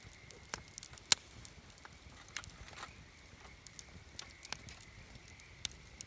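Wood campfire crackling, with scattered sharp pops; the loudest comes about a second in.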